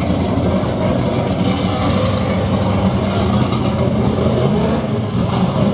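Drag-racing car engine idling and running steadily.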